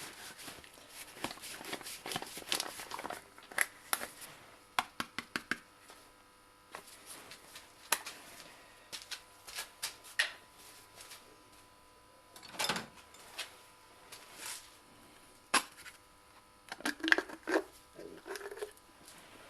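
Motor oil being poured from a plastic canister into the engine's filler neck, with irregular clicks and crackles of the plastic as it is handled, and a few short low gurgles near the end.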